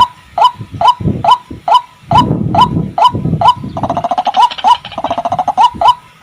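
White-breasted waterhen (ruak-ruak) calling: a short, loud note repeated about two to three times a second. About four seconds in, a fast chattering run of notes comes in, and deeper grunting notes sound under the calls in places.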